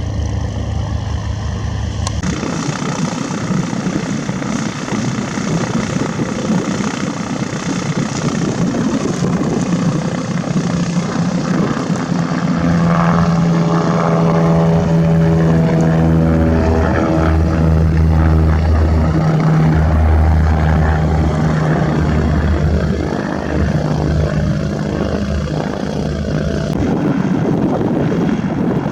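Propeller airplane passing by: its engine and propeller drone grows louder about halfway through, the pitch slides down as it goes past, and it eases off a few seconds before the end.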